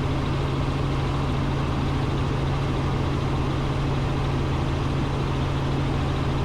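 Robinson R44 Raven II helicopter in cruise flight, heard from inside the cockpit: a steady, even drone of the piston engine and rotors with a low hum.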